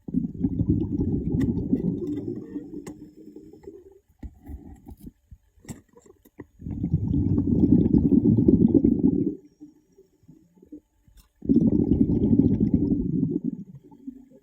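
Three long bursts of low, rumbling water noise with gurgling, each lasting about three to four seconds and spaced roughly five seconds apart, like bubbles rushing past a microphone underwater.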